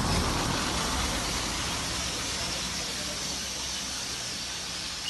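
Steady hiss of rain falling on standing floodwater, with a low rumble on the microphone during the first couple of seconds.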